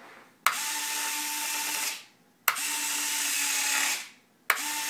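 Electric retract units of a Dynam Cessna 310 RC model cycling the landing gear: three runs of a steady whine, each starting with a sharp click and lasting about a second and a half, about two seconds apart.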